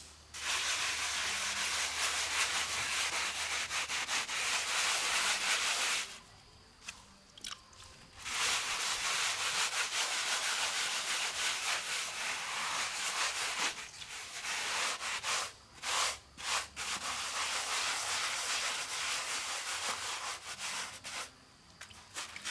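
A tool scraping through wet cement mortar in long, steady stretches, with a pause about six seconds in and a few short breaks later.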